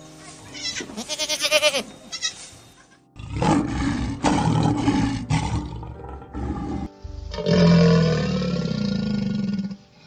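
A goat bleating twice, then a lion after about three seconds: a run of low grunting roars followed by a long, loud roar near the end.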